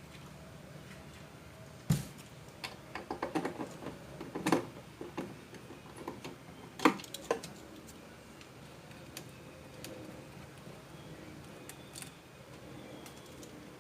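Irregular clicks and knocks of egg-incubator parts being handled and moved. The knocks come in a busy cluster in the first half, with the sharpest one about seven seconds in, then only a few faint ticks.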